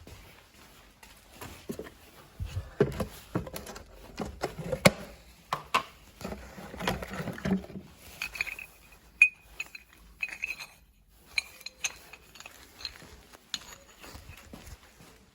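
Metal objects clattering and clinking as they are handled: irregular knocks, then short, bright ringing clinks in the second half.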